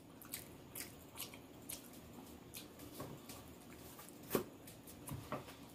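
Faint chewing and mouth sounds: scattered soft, wet clicks of someone eating, with one sharper click about four seconds in.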